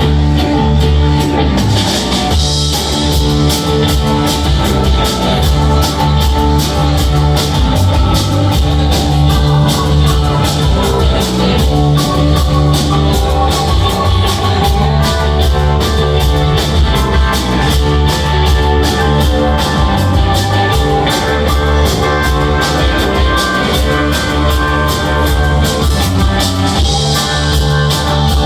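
Live rock band playing an instrumental jam: guitars over a steady drum kit beat, with cymbal strokes coming in about two seconds in.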